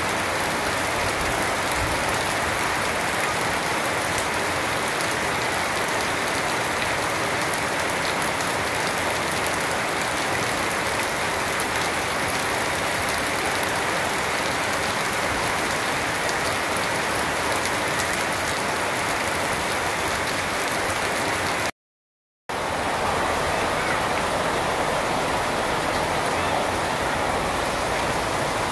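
Heavy rain falling steadily on garden foliage and a wet paved yard, a dense even hiss. About three quarters of the way through, the sound cuts out completely for about half a second, then resumes.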